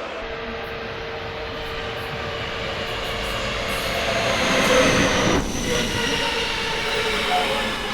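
A JR West 207-series commuter electric train running into the station and braking. Its rail noise grows to a peak about five seconds in, with high whining tones sliding slowly downward as it slows.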